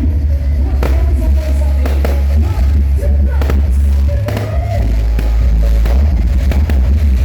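Very loud music from a vehicle-mounted 'sound horeg' sound system, dominated by heavy deep bass, with sharp percussive hits over it.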